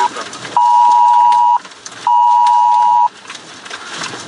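Wireless Emergency Alert attention tone from a phone, two pitches sounding together. A longer tone cuts off just as it starts, then two beeps of about a second each follow with half-second gaps, the pattern of a tornado warning alert.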